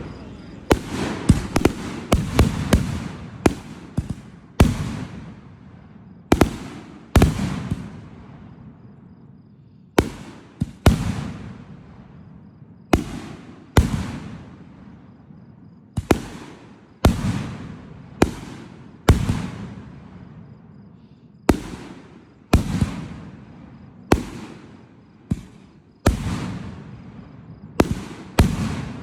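Fireworks going off: a long string of sharp bangs at uneven intervals, often two or three in quick succession, each followed by a fading rumble and crackle.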